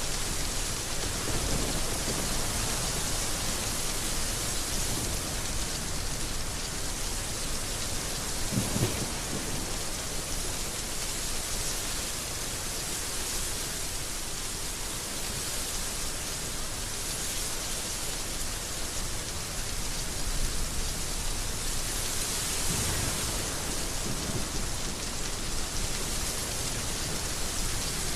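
Heavy rain falling steadily in a dense hiss, with a few short low rumbles, the clearest about nine seconds in and again near twenty-three seconds.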